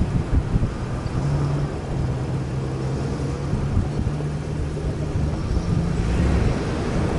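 Off-road vehicle engine running steadily under way, with a hum that steps up slightly in pitch about a second in, mixed with wind noise.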